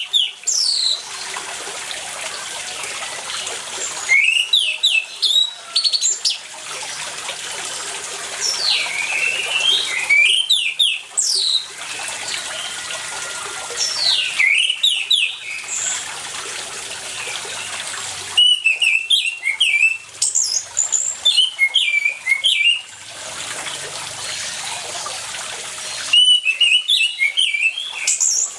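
Orange-headed thrush singing in loud bursts of fast, varied whistled phrases, a few seconds apart, over the steady rush of running water.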